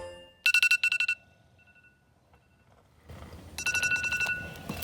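Digital alarm clock going off: two bursts of rapid electronic beeps, the second about three seconds after the first.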